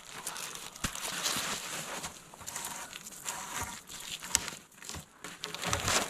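Irregular rustling and crinkling with scattered small knocks and clicks, like gear or fabric being handled.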